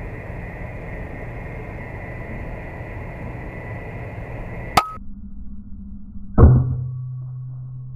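Air rifle shooting sequence: a sharp crack about five seconds in, then a louder, heavier thump about a second and a half later that dies away over a steady low hum. Before that there is only steady background noise.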